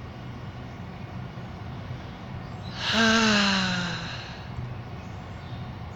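A man's long voiced sigh, falling in pitch, lasting about a second and a half, over a steady low background hum.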